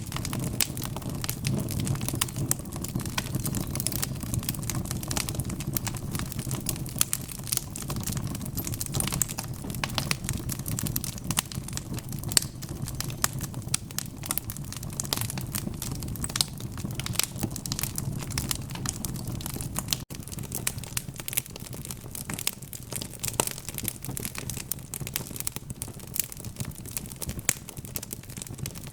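Wood fire crackling: dense, irregular pops and snaps over a low, steady rumble of burning. The sound breaks off for an instant about twenty seconds in.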